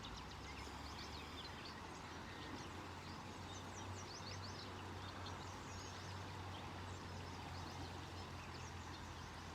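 Several birds chirping and singing over the steady rush of a creek, with a low steady hum underneath.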